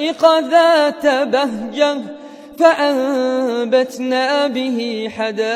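A solo voice reciting the Quran in melodic tajweed style. It draws out the word "hada'iq" with ornamented turns, takes a short breath about two seconds in, then holds one long steady note.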